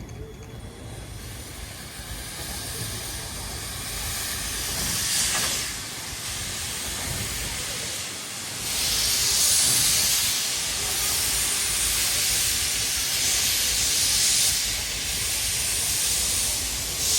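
Steam hissing from steam locomotive C56 160, starting faint and building to a loud hiss from about halfway through, swelling and easing in several surges.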